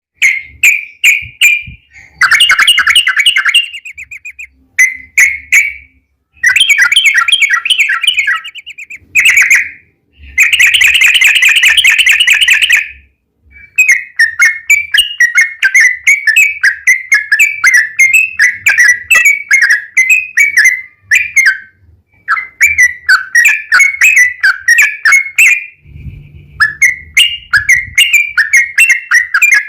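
Yellow-vented bulbul (trucukan) singing loud, bubbly chattering phrases, at first in short bursts with pauses, then in long, fast runs of notes: the long rapid 'ropel' song played as a lure to set other bulbuls singing.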